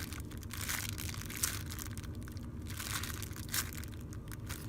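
A heart-shaped steamed-bun foam squishy toy being handled and squeezed in the hands: faint rustling and crinkling, with a few brief scratchy brushes.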